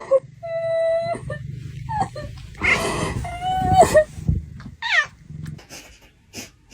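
A cat yowling and meowing: a held, even-pitched call early on, a loud rough stretch in the middle, then shorter calls that slide down in pitch, over a steady low hum.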